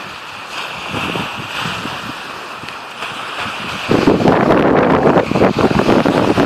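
Wind buffeting the microphone over open water. About four seconds in it suddenly gets much louder and rougher.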